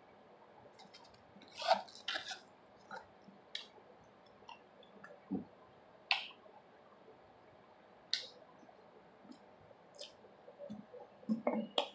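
A man chewing food close to the microphone, with scattered short wet clicks and smacks spaced a second or so apart.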